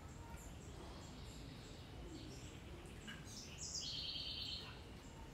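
A bird calls once, a high call of about a second that steps down in pitch, about three and a half seconds in, over a faint, steady low background noise.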